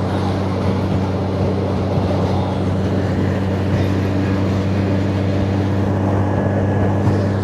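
Motorcycle engine running at a steady cruising speed, its low even drone mixed with wind and road noise.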